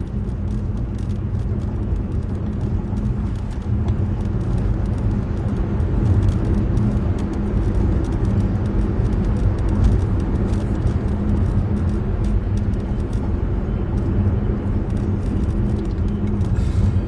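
Steady low rumble of a vehicle in motion, with a faint steady hum underneath.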